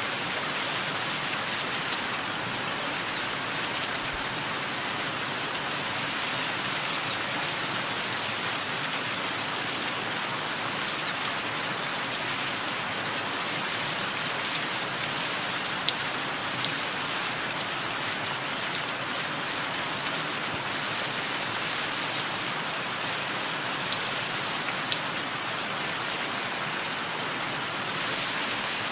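Steady rain with a bird chirping over it: short, high chirps that fall in pitch, often in twos or threes, every second or two.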